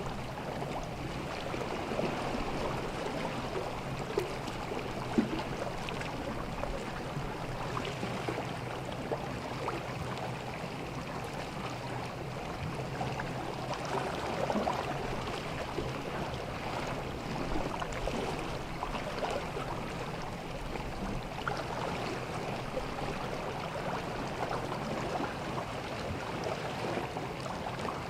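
Sea water gently lapping and washing at the shore, a steady irregular wash with small splashes, over a steady low hum.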